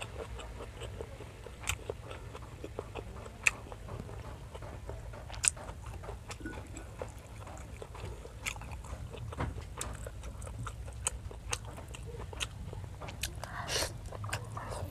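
Close-miked chewing and mouth sounds of a person eating grilled squid, rice and seaweed by hand: wet smacks with scattered sharp clicks, a few louder snaps, and a denser run of smacking near the end.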